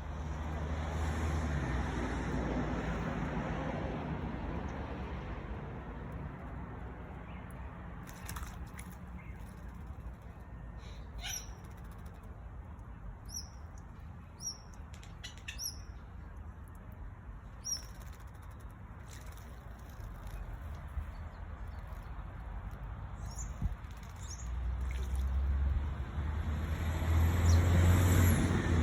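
Birds giving short, high chirps now and then over a steady low rumble of road traffic, which swells louder near the end.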